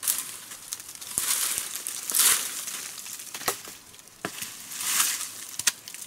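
Crinkling and rustling, as of something dry or crinkly being handled, in several bursts with a few sharp clicks.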